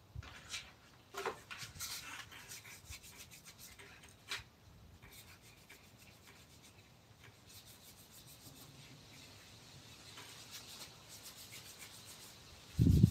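Hand work on wood: short rubbing and scraping strokes, then a fainter steady rubbing, typical of sanding or filing a wooden carving. A loud low rumble starts near the end.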